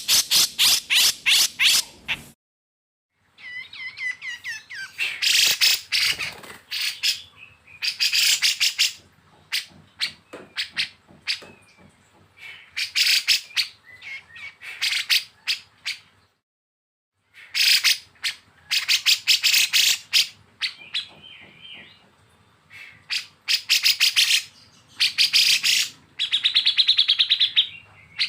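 Songbird song made of rapid runs of sharp, repeated notes in bursts of a second or two, some notes bending in pitch. It stops dead twice for about a second, as at an edit.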